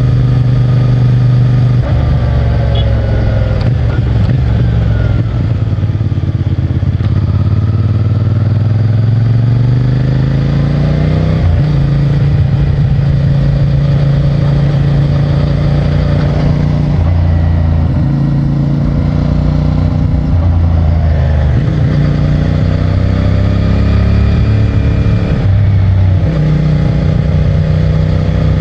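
CFMOTO 450MT's parallel-twin engine running through its stock exhaust while riding. The engine pitch dips and climbs again several times as the throttle is eased off and opened, with a sudden step about eleven seconds in.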